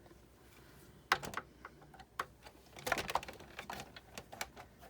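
Irregular light clicks and taps from handling the Big Shot die-cutting machine's parts and screws while it is being taken apart. There is a group about a second in and a denser run of clicks from about three seconds in.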